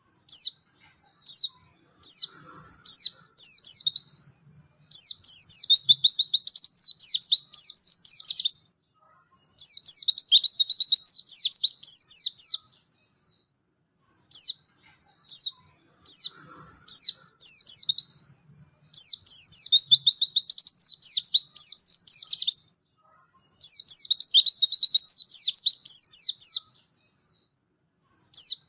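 White-eye (pleci) singing a fast, high-pitched warbling song in bouts of several seconds separated by short pauses. The same sequence of phrases comes round again about every 14 seconds, as in a looped tutoring recording.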